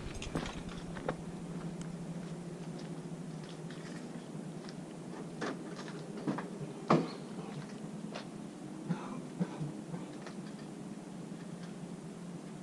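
Ford F-350's 6.0 L Power Stroke V8 turbo-diesel idling just after a cold start, a steady low hum, with scattered clicks and taps on top, the loudest about seven seconds in.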